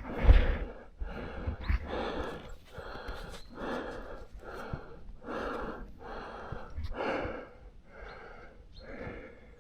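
A mountain biker panting hard, with quick heavy breaths in and out at roughly one a second.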